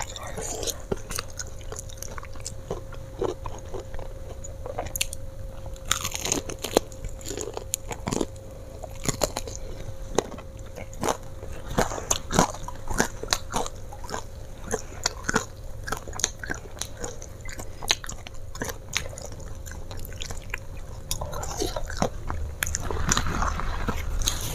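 Close-up chewing of crispy fried chicken: many sharp, irregular crunches as the batter and meat are bitten and chewed, with a faint steady hum underneath.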